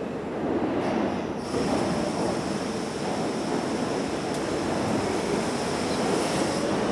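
New York City subway train pulling out of an underground station, a steady rumble of wheels and motors that grows gradually louder. A thin, high, steady tone comes in about a second and a half in and holds.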